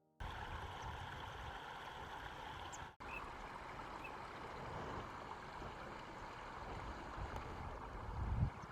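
Steady rush of flowing stream water. The sound briefly cuts out about three seconds in, and there is a short low rumble near the end.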